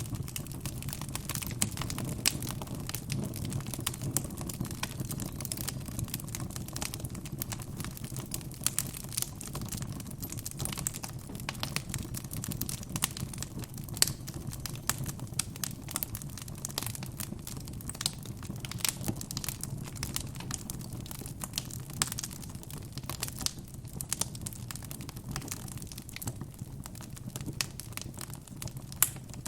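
Wood fire burning in a fireplace: constant irregular crackling and snapping of the burning logs over a low steady rumble of the flames, with a few louder pops, the sharpest about halfway through and another near the end.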